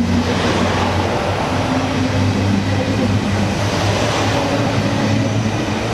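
A Deutsche Bahn ICE high-speed electric train running past at close range: a steady rumble of wheels on rail with a low hum and a few held whining tones over it.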